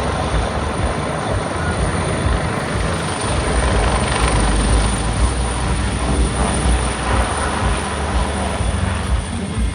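Aircraft flying over at an air show: a loud, steady engine roar with a deep rumble.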